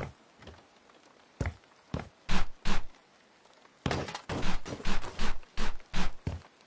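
A series of heavy thuds and knocks. A few single ones come in the first half, then a quicker run of about two a second in the second half.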